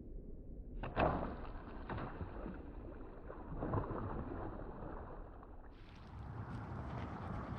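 Rumbling outdoor noise on a small boat on the water, with a sudden loud knock about a second in.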